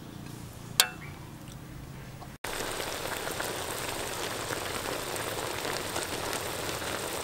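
Chicken feet cooking in a wok. A quieter stretch with one sharp click about a second in gives way, about two and a half seconds in, to a louder dense crackling sizzle of the feet frying in bubbling sauce.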